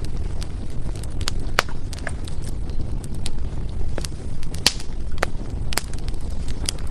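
Wood fire burning with a steady low rumble of flames and irregular sharp crackles and pops from the burning firewood, a few louder snaps standing out.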